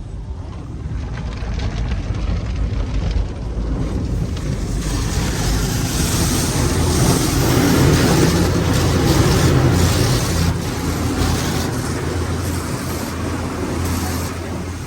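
Automatic car wash tunnel equipment running: a steady hiss like rushing spray over a low motor hum. It builds to its loudest around the middle, then eases slightly.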